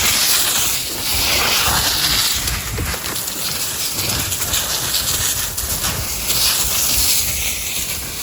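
Wildland fire hose spraying water, a steady loud hiss.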